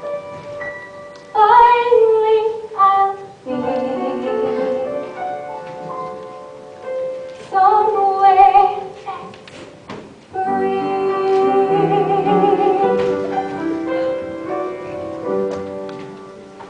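A woman singing a slow song with long held notes and vibrato, the longest held about ten seconds in, over piano and instrumental accompaniment.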